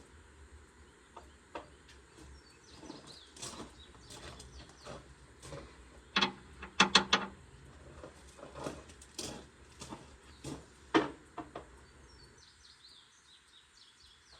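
Scattered knocks and clinks of hand tools and metal parts being handled during repair work, with a quick run of sharper strikes about six to seven seconds in and another about eleven seconds in. Birds chirp faintly in the background, most clearly near the end.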